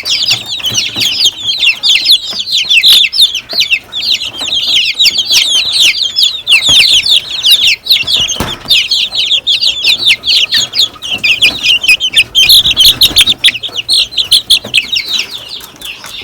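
A brood of young chicks peeping without pause, many short, high, downward-sliding peeps overlapping one another.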